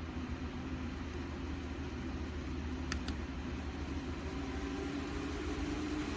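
Small USB desk fan running steadily: an even rush of air over a low motor hum, with a brief click about three seconds in.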